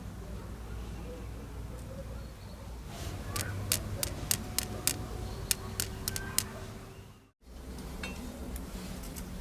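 A run of about a dozen sharp, irregular clicks of small hard objects over some three seconds, above a low steady hum. The sound drops out to silence for a moment near the end.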